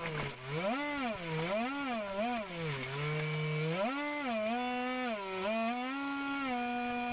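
RC air boat's motor and propeller whining. The pitch swings up and down several times as the throttle is worked, then holds fairly steady in the second half.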